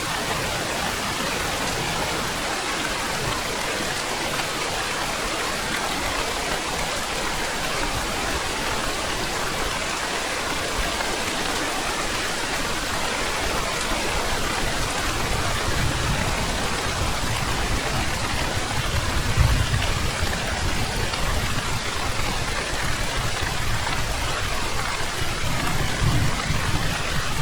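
Steady rain falling. Low rumbles of thunder build in the second half, loudest about two-thirds of the way through and again near the end.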